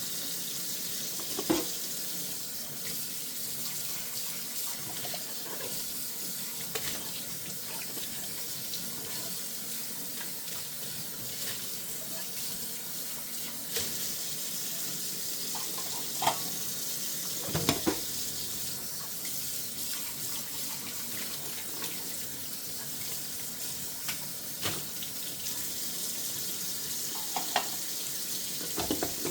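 Kitchen tap running steadily into a sink while dishes are washed by hand, with occasional brief clinks and knocks of dishes against each other or the sink.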